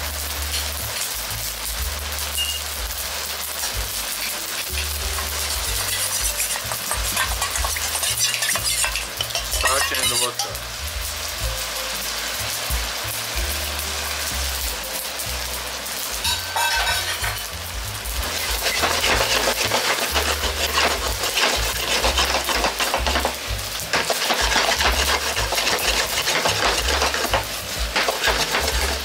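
Stir-fry of meat, shrimp and vegetables sizzling in a wok as it is stirred, with a starch-and-water slurry poured in to thicken the sauce. The sizzling grows louder a little past halfway.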